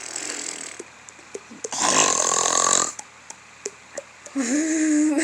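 A person making silly mouth noises: a raspy, snore-like throat sound about two seconds in, a few sharp mouth clicks, and a low hummed tone near the end.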